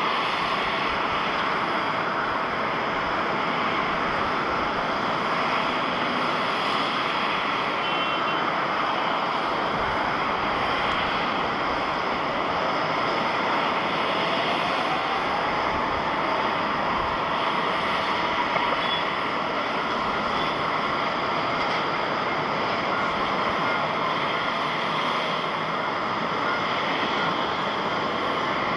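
Jet airliner engines running steadily, with a faint rising whine in the middle.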